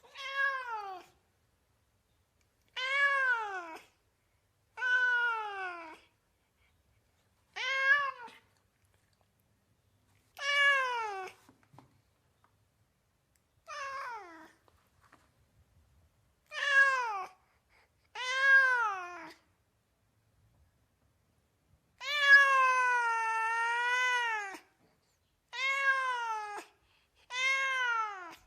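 A cat meowing over and over, about eleven separate meows. Each falls in pitch and lasts about a second. One long, drawn-out meow comes about two-thirds of the way through.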